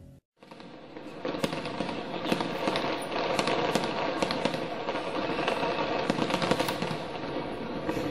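Fireworks crackling: a dense, continuous run of many small sharp pops that sets in about a second in.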